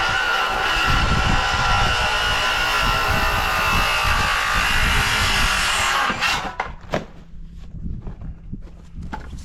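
Electric saw running and cutting a framing board, a loud steady whine that cuts off about six seconds in, followed by a few knocks of wood being handled.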